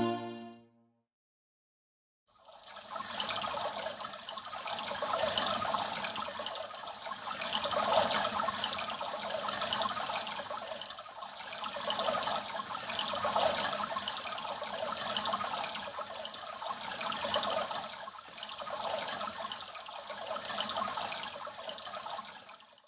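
Water washing in waves, a rushing sound that swells and fades about every two and a half seconds.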